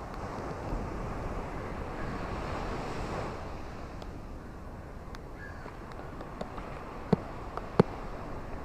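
Ocean waves washing onto a shore, a surge building about a second in and easing off, with a few sharp clicks near the end.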